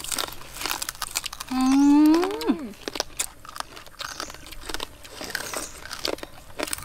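Several people biting and chewing crunchy food, crispy pork belly crackling and raw greens, with many sharp crackly crunches close to the microphone. About a second and a half in, a woman's voice gives one drawn-out rising 'mmm'-like sound of appreciation.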